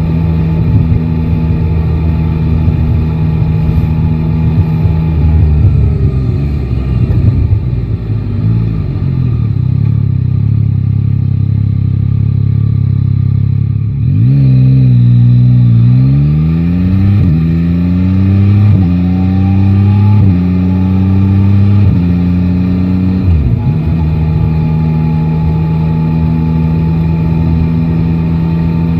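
Yamaha Tracer 9 GT's inline three-cylinder engine under the rider. It cruises steadily, then rolls off with a falling note about six seconds in and runs low for several seconds. Halfway through it accelerates hard, the pitch climbing and dropping through four upshifts before it settles back to a steady cruise.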